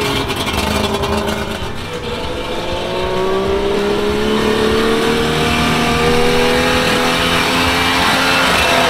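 Suzuki Jimny SJ10's small three-cylinder two-stroke engine running as the vehicle is driven off-road, its pitch rising slowly over several seconds.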